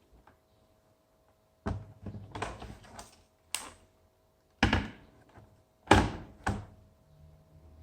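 A series of sharp clicks and knocks from a laptop's plastic body being handled, starting about two seconds in, some with short rattles, the loudest two near the end.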